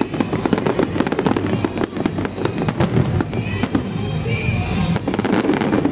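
Aerial fireworks bursting in rapid succession: a dense, unbroken run of bangs and crackles over a steady rumble.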